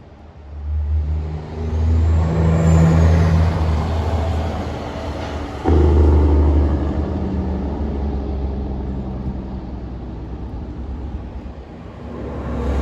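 Heavy coal trucks driving past with a deep engine rumble. It builds within the first two seconds and jumps suddenly in loudness a little before halfway. It then slowly eases off and swells again near the end as more traffic comes through.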